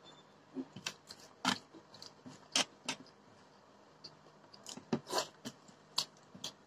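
Close-up eating sounds: wet chewing and lip smacks as rice and curry are eaten by hand, in short, sharp, irregular smacks about one or two a second.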